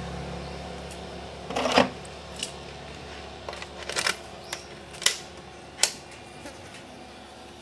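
A few separate sharp clicks and light knocks, the loudest about two seconds in, over a faint low hum that fades out early on.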